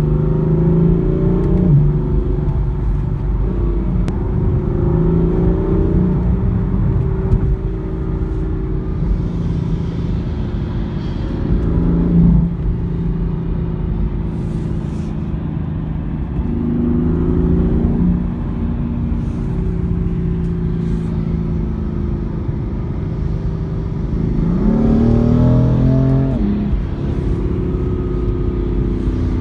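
Car engine heard from inside the cabin, pulling hard with its revs climbing and then dropping at each upshift, several times over, over a steady road rumble.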